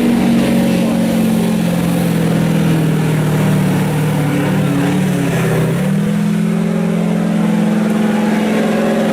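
Diesel pickup truck engine running hard under load while pulling a sled. Its pitch sags a little about five seconds in, then climbs back and holds steady.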